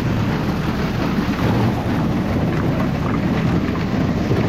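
Farm tractor and corn-harvesting machinery running: a steady, heavy rumble with a rattling clatter over it.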